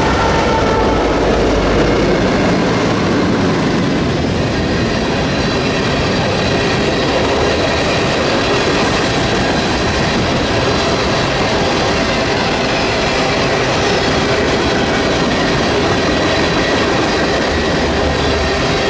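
Freight train cars rolling past close by, wheels clattering over the rails with a thin steady squeal above. There is a heavier low rumble in the first couple of seconds.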